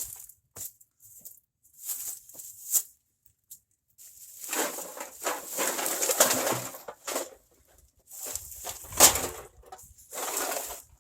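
Rustling and clattering of loose trash and odds and ends being handled and sorted, in uneven bursts with a sharper knock about nine seconds in.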